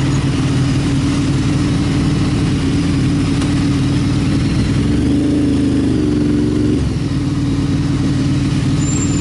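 Motorcycle engine running steadily at cruising speed over a constant rush of wind noise. About five seconds in, the engine note shifts for a couple of seconds, then settles back.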